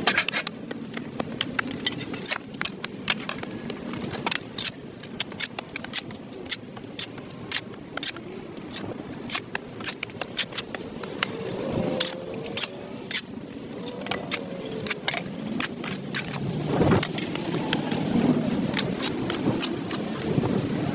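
Irregular short scrapes and clicks of a hand tool scraping dirt and grime off a concrete sidewalk.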